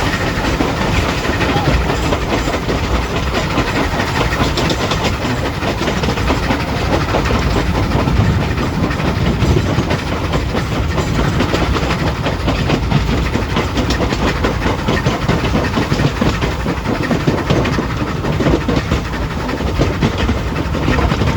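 Heritage railway train running on the line: a steady rumble with the continuous clatter of carriage wheels over the rails.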